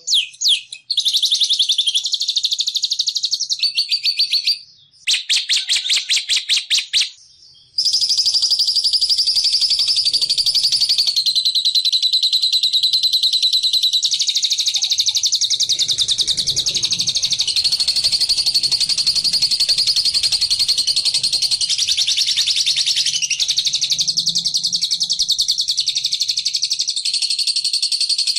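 Lovebird singing in the long, fast, high-pitched chattering trill that keepers call 'ngekek'. For the first several seconds it comes in short runs of rapid chirps with brief gaps, then settles into one unbroken trill.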